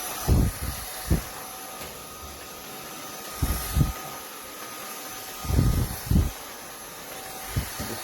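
Cordless stick vacuum cleaner running with a steady whine and hiss. Several short low thumps come over it at irregular times.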